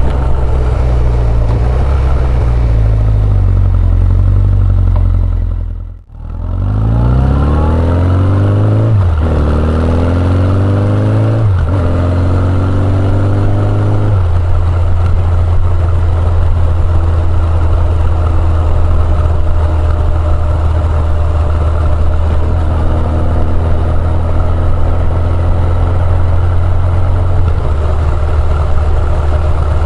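Honda CB1100EX's air-cooled inline-four engine through an R's Gear Wyvern Classic aftermarket exhaust, heard from on the bike. The sound briefly fades out about six seconds in, then the engine pulls up through the gears with two upshifts and settles into a steady cruise.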